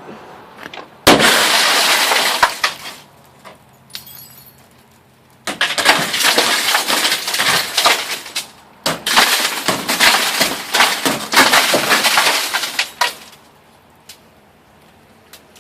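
A Dodge Neon's rear window glass being smashed out. A sudden loud shattering crash comes about a second in, then after a pause a long run of repeated smashing and crunching glass that stops about thirteen seconds in.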